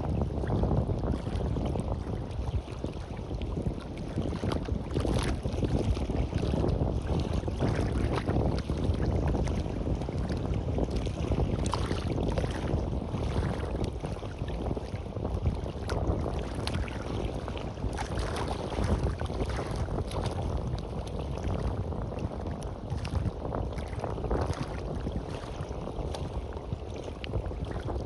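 Sea waves washing on a beach, with wind buffeting the microphone: a steady low rumble full of short splashy crackles, rising and falling without a beat.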